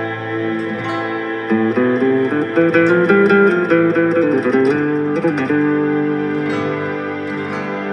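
Instrumental music: a slow ballad with plucked guitar playing a melody over held chords.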